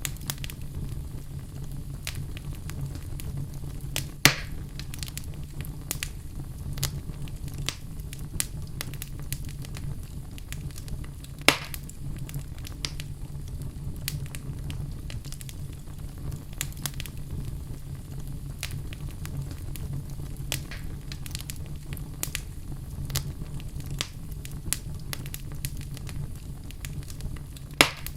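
Fire burning in a fireplace, crackling steadily with many small ticks over a low rumble. Three sharper, louder pops come about 4 seconds in, about 11 seconds in and near the end.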